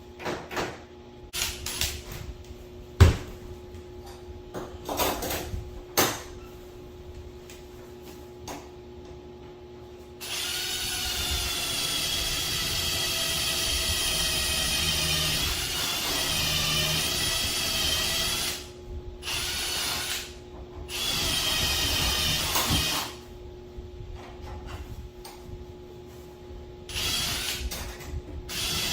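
A few knocks and clicks of tools being handled, then a power drill running in long spells with a steady whine, stopping and starting again several times; its pitch sags briefly partway through as it takes load.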